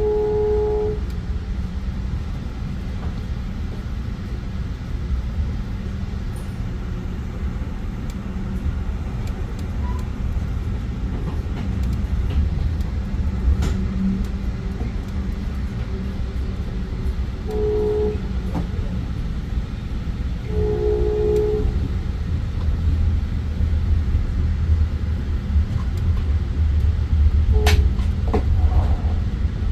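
Amtrak passenger train running with a steady low rumble, its horn sounding three brief chord-like blasts: one at the start, one a little past the middle, and a slightly longer one a few seconds later. A couple of sharp clicks break in.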